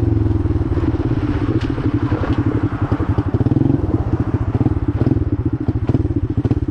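Four-wheeler (ATV) engine running steadily while riding, with a fast pulsing note that holds a fairly even pitch.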